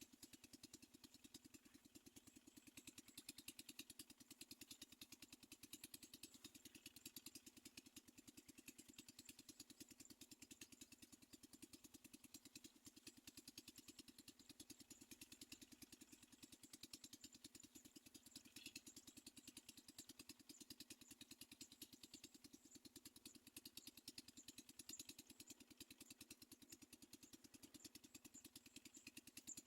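Near silence, with a faint steady low hum and a faint high hiss.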